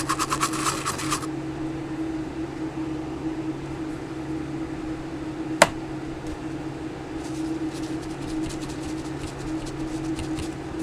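A steady electrical hum, like a fan, with a quick series of fast rubbing strokes at the start that stop after about a second. One sharp click comes about halfway through.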